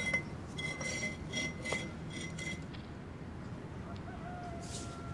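A run of light metallic clinks and taps, each ringing briefly, as a mortar shell is handled at the mouth of a mortar tube laid flat. A faint held tone follows near the end.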